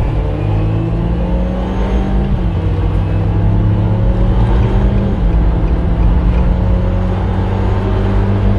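Car engine under hard acceleration, its pitch climbing again and again through the gears, with breaks in the tone about two and a half and five seconds in.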